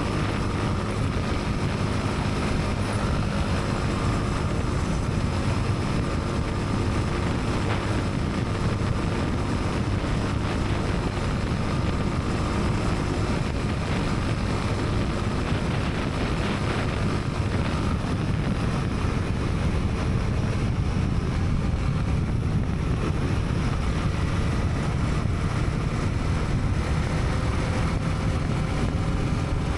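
Honda CB300R's single-cylinder engine running at a steady pace while riding, with road noise.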